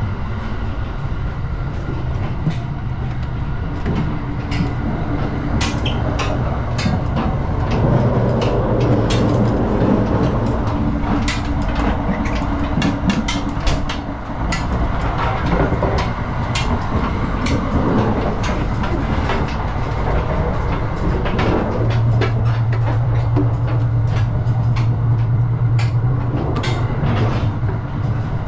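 JR 285 series Sunrise Izumo sleeper train running at speed, heard from inside the car: a steady rumble of wheels on track, with many quick clicks and rattles. A low hum swells up about a quarter of the way in and again near the end.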